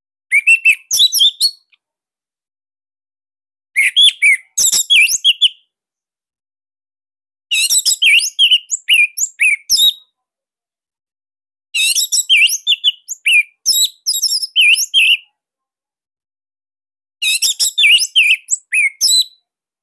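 Orange-headed thrush (anis merah) singing: five loud, rapid phrases of high, quick sliding whistles and twitters, each lasting a couple of seconds, separated by pauses of about two seconds.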